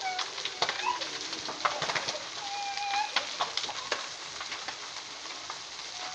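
Crackling and popping of a large outdoor brush-and-tree fire: many sharp irregular snaps. A few short pitched calls sound faintly over it.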